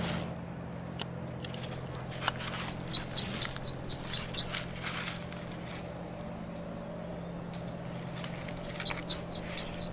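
A warbler singing two songs, each a run of about eight loud, quick, high, clear notes lasting a second and a half, about three seconds in and again near the end.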